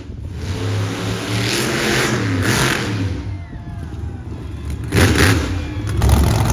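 Monster truck engine revving up and down, with a loud sharp burst about five seconds in.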